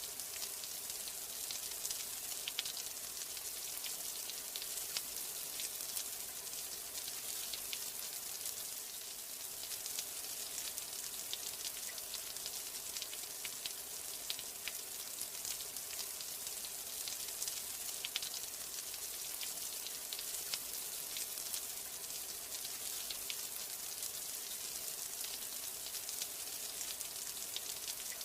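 Steady rain: a dense hiss with many small, sharp drop ticks scattered through it.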